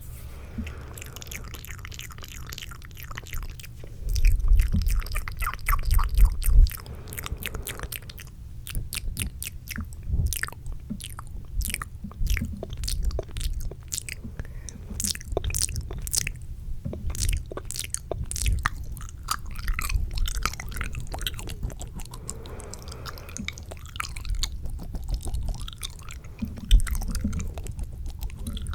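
Fast, close-miked ASMR mouth sounds: wet clicks and smacks in quick runs. A few louder low thumps come about four to seven seconds in.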